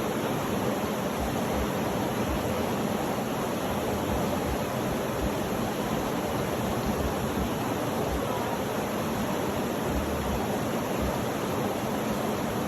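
Steady, even rushing noise of a sleep-sound track, unchanging throughout, with no rhythm or separate events.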